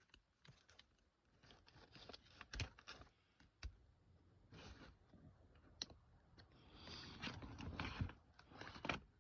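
Faint, irregular clicks and scrapes of plastic and metal parts handled inside a car door as the old door lock actuator is pried and worked loose. There is a longer scrape about seven seconds in.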